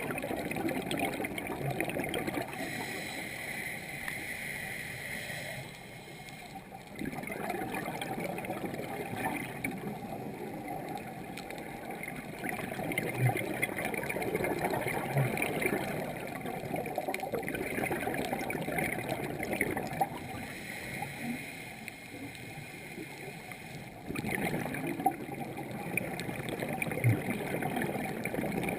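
Underwater sound of scuba divers' exhaled bubbles gurgling and rushing, swelling and fading with the breaths, with quieter gaps between them.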